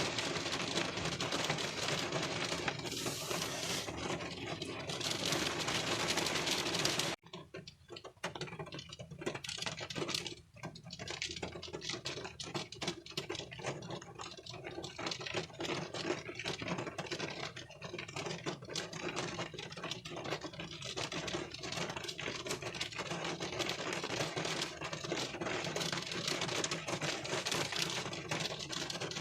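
Rain pattering on a car windshield, heard from inside the car, a dense rush of small drop ticks. About seven seconds in it drops out abruptly, then carries on lighter, with more separate drop taps.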